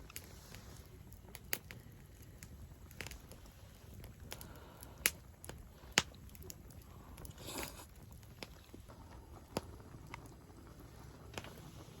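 Wood campfire crackling, with scattered small pops and two sharper snaps about five and six seconds in.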